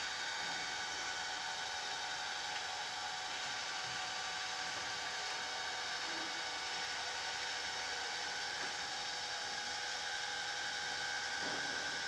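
Xiaomi Mi Robot Vacuum-Mop Essential running: a steady whir of its suction fan and drive motors, with several steady high whining tones.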